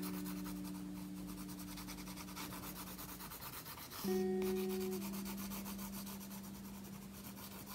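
Blue colouring pencil rubbing rapidly back and forth on paper in soft shading strokes. Under it, soft background music with long held notes, a new chord starting about four seconds in and slowly fading.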